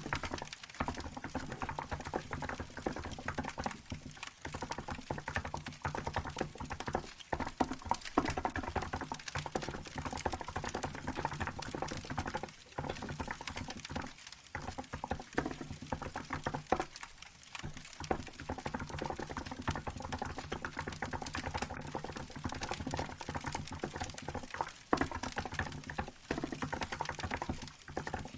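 Continuous fast typing on a Hansung GK868B electro-capacitive keyboard fitted with milky white keycaps: a dense run of key strokes, broken by a few short pauses.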